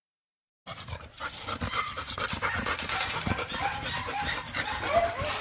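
Dogs panting hard and scrabbling about, with short high-pitched cries rising and falling; the sound cuts in suddenly under a second in.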